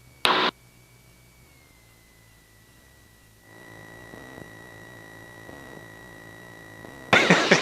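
Faint steady electrical whine on the light aircraft's intercom audio, dipping slightly in pitch partway through. A short loud burst comes just after the start, and a person starts talking near the end.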